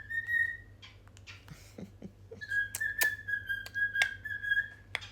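A galah cockatoo whistling: a short steady whistle, then after a pause a longer held whistle of about two and a half seconds, with a few sharp clicks over it.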